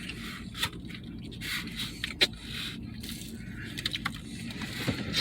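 Scattered light clicks and scrapes of eating from takeout food containers, the sharpest click a little over two seconds in and a cluster near the end.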